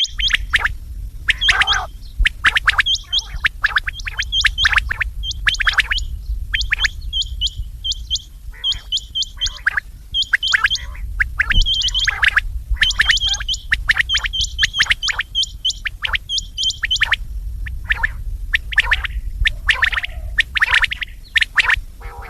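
Quail calling over and over: quick clusters of three to five short, sharp whistled notes, repeating every second or so, over a steady low hum.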